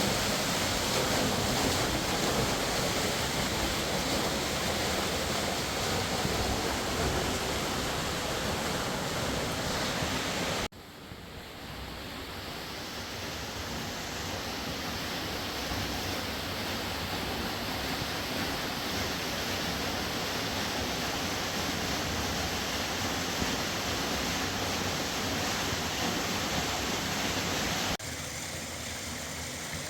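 Steady rushing of a fast-flowing mountain river. It drops off suddenly about a third of the way in, comes back quieter and slowly swells, then shifts abruptly again near the end.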